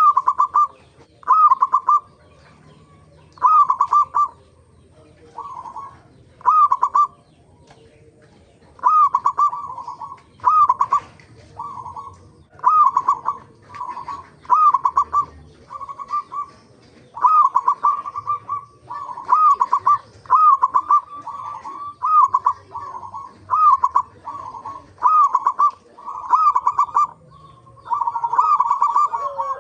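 Zebra doves (perkutut) cooing: short rolling coo phrases repeated about every second or so. Near the end the calls crowd together and overlap.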